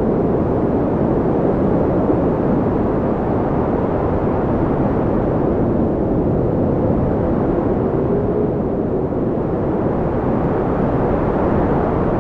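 Storm-wind sound effect: a steady, deep rushing noise with a faint wavering whistle partway through.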